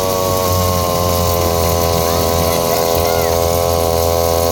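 Dirt bike engine running at a steady, held speed.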